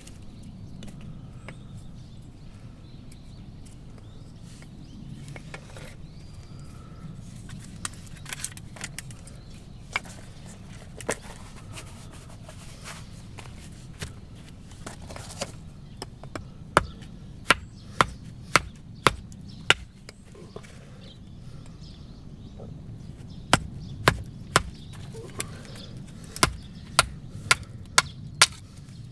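Axe chopping firewood: scattered knocks, then two runs of sharp blows of steel into wood, about two a second.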